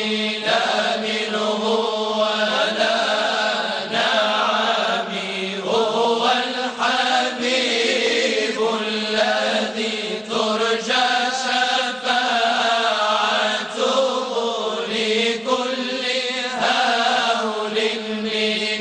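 Moroccan madih nabawi (devotional praise of the Prophet) chanted in long melodic phrases over a steady low drone.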